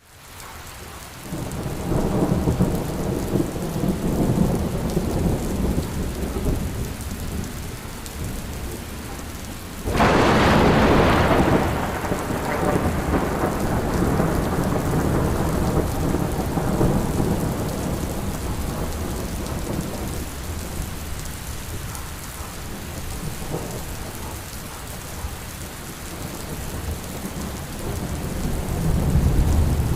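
Thunderstorm: steady rain with rolling thunder. A low rumble comes in a couple of seconds in. A sudden thunderclap about ten seconds in dies away over several seconds, and the rumble swells again near the end.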